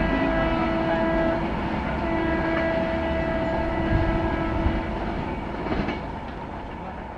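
Passing train's locomotive horn sounding two blasts, a short one and then a longer one, over the rumble and clickety-clack of wheels on the track; the train noise fades away near the end.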